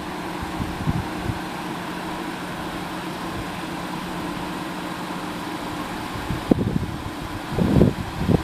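A car engine idling: a steady hum with a constant low tone.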